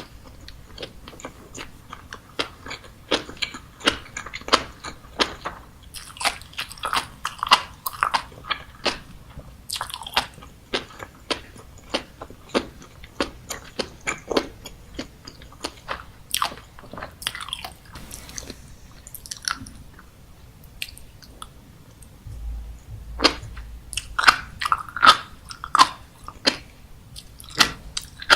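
Close-miked eating: a person chewing and biting, with many quick wet pops and crunches. The chewing thins out past the middle, then a run of louder pops comes near the end.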